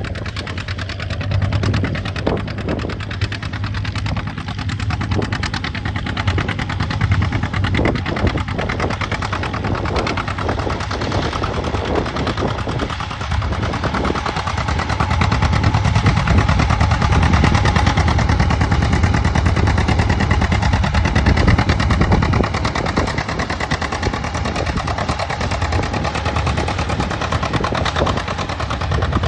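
Two-cylinder John Deere tractor engine working under load, pulling a moldboard plow, with a fast string of sharp exhaust pops. It gets louder through the middle, then eases off a little.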